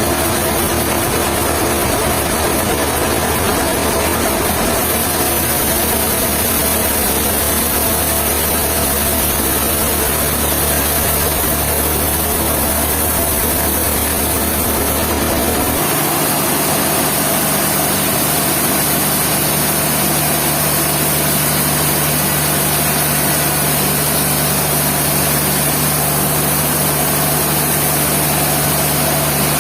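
An engine running steadily. About halfway through, its low note steps up to a steady higher one, as the engine changes speed or load.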